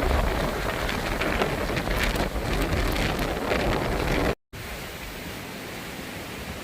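Storm wind and rain rushing and buffeting the microphone with a heavy low rumble. A little over four seconds in it cuts off abruptly, and a quieter steady hiss follows.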